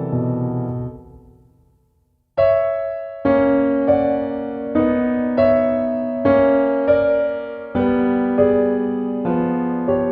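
Solo piano music: a held chord dies away to silence about two seconds in, then the piano comes back in, playing a new chord roughly every second, each note ringing and fading.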